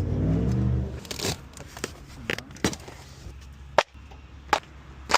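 A low steady hum for about the first second, then scattered sharp clicks and knocks at irregular intervals.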